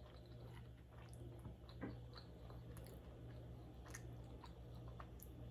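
Faint close-up chewing of a mouthful of shrimp tempura sushi roll: scattered soft mouth clicks and small wet crunches over a steady low hum.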